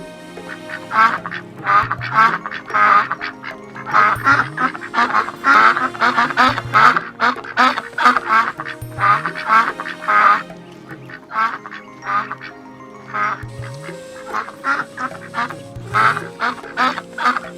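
Ducks quacking in rapid runs of short calls, over background music with a regular beat.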